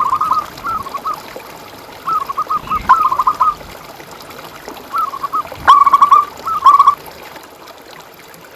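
Zebra dove (perkutut) cooing: short phrases of quick, repeated notes, heard about seven times with short gaps between them, stopping about seven seconds in.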